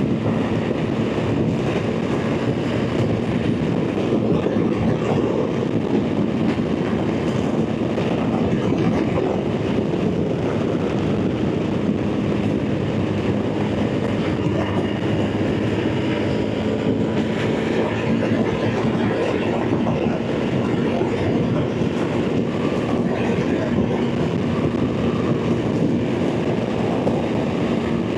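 BMW R 1300 GS Adventure's boxer-twin engine running steadily at motorway cruising speed, mixed with constant wind and road rush.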